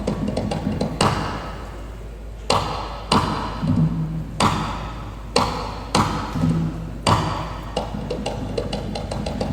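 Balinese kendang, a hand-played double-headed drum, played solo: loud, sharp slapped strokes at uneven intervals, with quick light taps between them and a low booming drum tone now and then.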